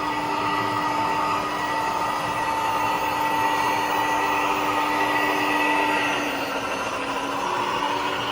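Model train locomotive running on the track: a steady, even whine that dips slightly in pitch about six seconds in, then comes back up.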